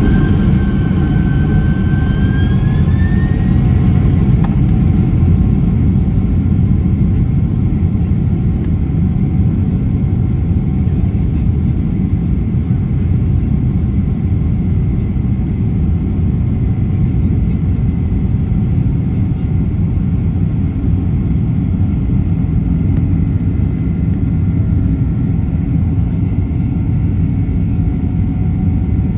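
Boeing 767-300 jet engines and airframe heard from inside the cabin: a loud, steady rumble, with an engine whine that rises in pitch over the first few seconds and then holds, as during the takeoff run at high thrust.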